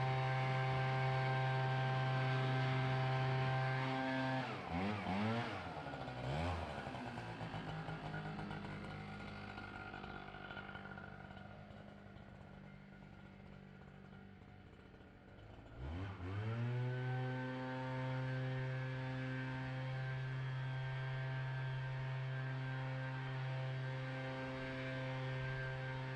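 Small gas engine of lawn equipment running steadily at high throttle. About four seconds in it drops to a low idle and goes quieter, then about sixteen seconds in it revs back up with a rising pitch and holds steady again.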